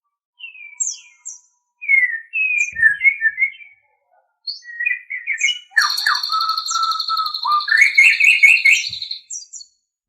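White-rumped shama (murai batu) singing: quick varied whistles and chattering notes, a short pause, then a longer rich phrase over a steady high note that ends shortly before the close.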